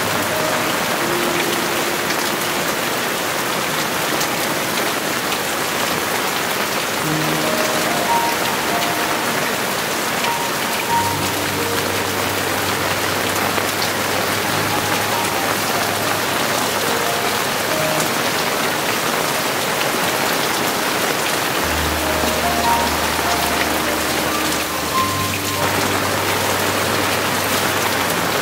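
Heavy monsoon rain falling steadily, a dense even patter on surfaces, with soft background music of scattered held notes and a low bass underneath.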